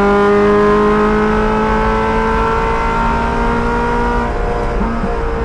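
Race car engine heard from inside the cockpit, pulling under load with its pitch climbing slowly. About four seconds in the note drops away, and a steady engine note follows near the end.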